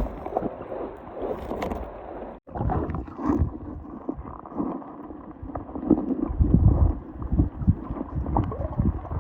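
Wind buffeting the microphone over water lapping and splashing, with scattered small knocks; the gusts grow heavier in the second half.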